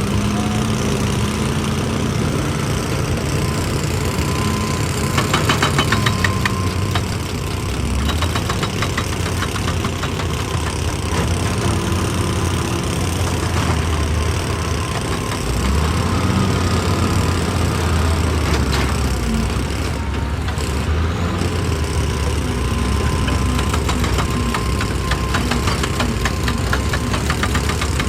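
Excavator's diesel engine running under load, its note dropping and rising as the machine works. Twice there are stretches of rapid clattering.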